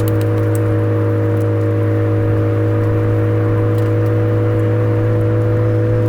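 Suzuki Swift Sport ZC33S's 1.4-litre turbo four-cylinder running through a Fujitsubo aftermarket exhaust at a steady engine speed: a constant low drone that holds one pitch, with a few faint ticks.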